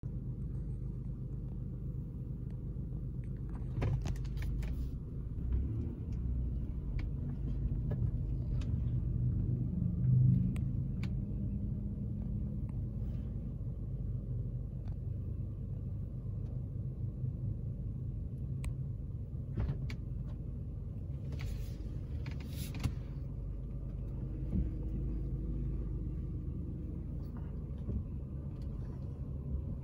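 Steady low rumble of an idling car engine, swelling briefly about ten seconds in, with a few faint clicks and short rustles.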